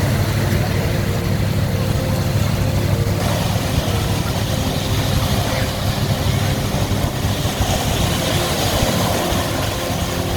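An engine running steadily, a constant hum over a noisy rush.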